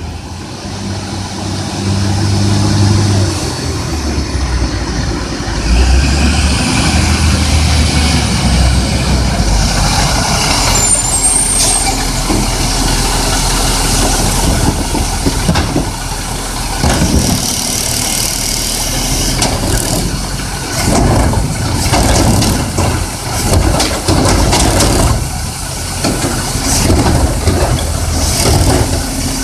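Garbage truck engine running, with repeated knocks and clatter over the second half.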